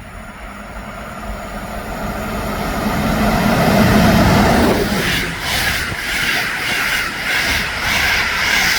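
Train passing through a station, growing louder as it approaches and loudest about four seconds in. Then comes a rhythmic clatter of wheels over rail joints, about two beats a second.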